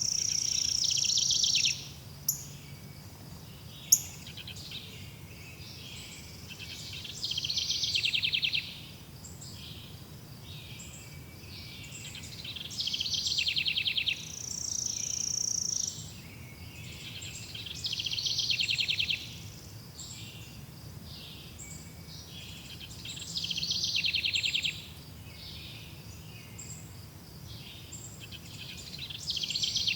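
Birdsong: a trilled phrase about a second and a half long, repeated every five or six seconds, with a held high whistle near the start and again around the middle, over a faint steady low rumble.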